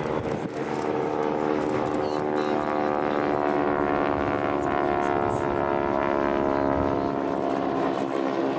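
Propeller aircraft engine droning in flight, a steady many-toned hum that grows louder over the first couple of seconds and then holds.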